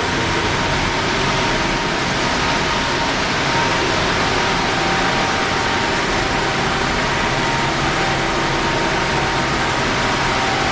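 CNC vertical machining center running with its spindle at speed: a steady machine whir with a faint high whine.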